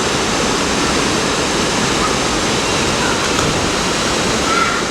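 Waterfall rushing steadily: a constant, loud wash of falling water.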